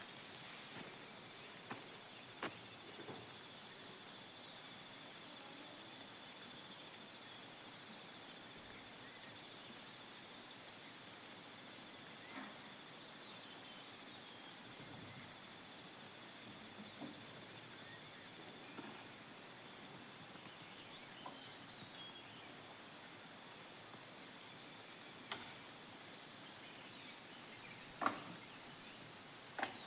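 Faint, steady, high-pitched insect chorus, crickets or similar, with a pulsing beat. A few scattered short knocks sound over it, the loudest near the end.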